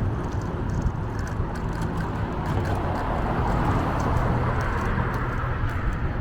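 Steady road and wind noise from riding a bicycle: a low rumble of wind on the microphone under tyre noise, with faint ticks scattered through. The noise swells a little in the middle and eases off toward the end.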